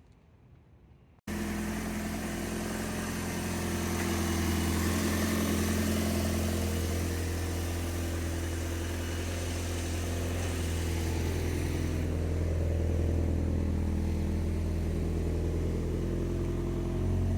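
Quiet room tone, then about a second in a car engine cuts in and runs steadily at an even, low pitch.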